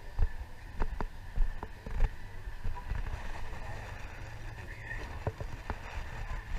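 Irregular clicks and knocks of small hard objects being handled, over a steady low rumble.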